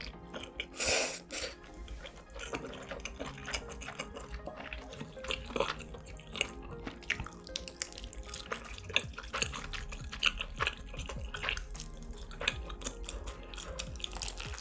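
Close-miked eating sounds: irregular chewing and mouth clicks, with a short louder slurp about a second in, over faint background music.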